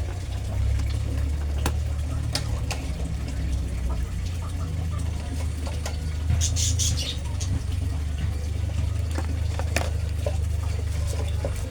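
Light scattered clicks and taps of small-parts bench work over a steady low hum, with a short hiss about six seconds in.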